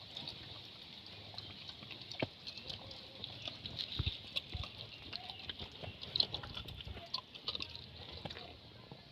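A dog eating: many irregular, wet chewing clicks and smacks, with a steady high hiss behind.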